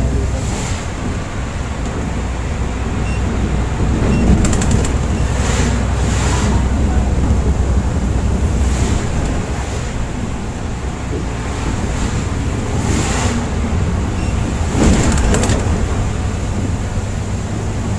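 Volvo B8R coach moving along the highway: a steady, low engine and road drone. Short hissing swishes come now and then at uneven intervals.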